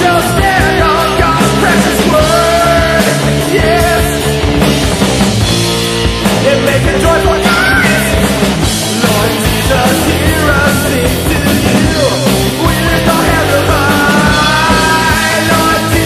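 Loud heavy metal band music with distorted guitars and drums, and a singing or yelling voice over it.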